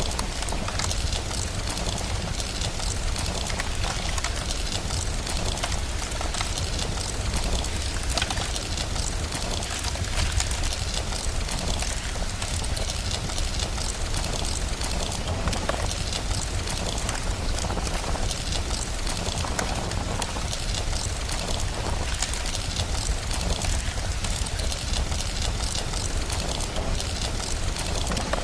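Steady rain with a constant low rumble, mixed with a wood fire crackling in many small irregular pops.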